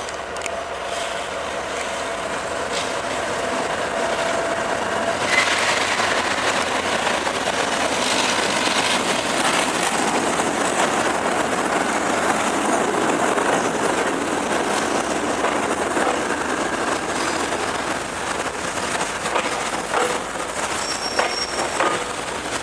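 A train rolling past, the noise of its wheels and wagons on the rails swelling about five seconds in, holding steady, then easing a little near the end.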